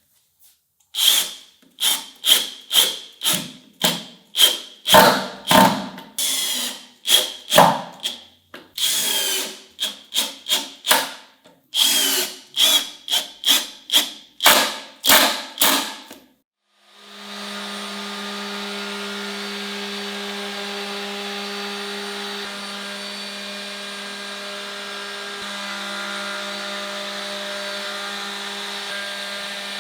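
A hand tool worked back and forth on wood in quick strokes, about two a second, for some fifteen seconds. It stops, and a moment later an electric power tool starts and runs steadily with a low hum.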